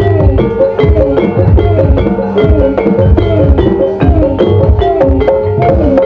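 Live Banyumas-style gamelan music for an ebeg dance: hand drums beat a steady, busy rhythm under struck pitched percussion and a bending melody line.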